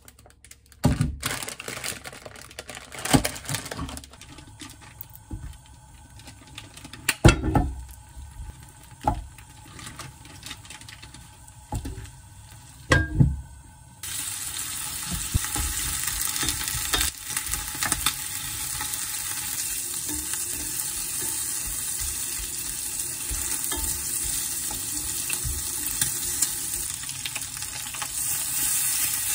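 Plastic packaging being handled and crinkled, with a few sharp crackles. About halfway in, a steady sizzling begins: whole beef large intestines (tong daechang) frying in a grill pan. The sizzle gets a little louder near the end as sliced smoked duck goes into the pan.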